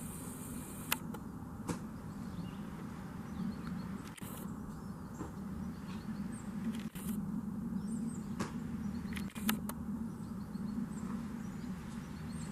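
Outdoor ambience: a steady low hum with scattered sharp clicks and a few faint, high chirps.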